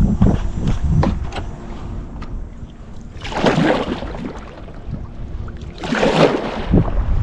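Kayak paddle strokes in lake water: a few light dips, then two big splashing swishes a few seconds apart, over a faint steady hum.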